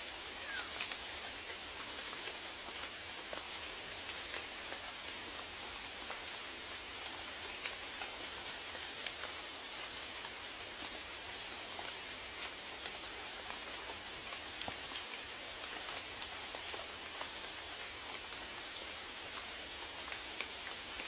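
Steady rain falling, with a continuous hiss and many individual drops ticking sharply on a hard surface throughout.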